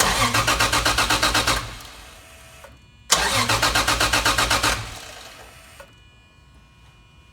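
Starter cranking a Toyota 1JZ straight-six in two bursts of about a second and a half, each a quick even chug that fades out when the key is let go, with the engine not firing. The ignition is disabled (igniter unplugged) so the cranking only pushes oil to the new turbo and builds oil pressure.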